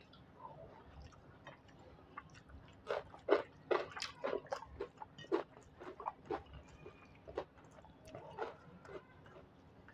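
Close-up mouth sounds of a person chewing a mouthful of rice and fish curry: wet smacks and clicks, thickest about three to six seconds in, over a faint steady hum.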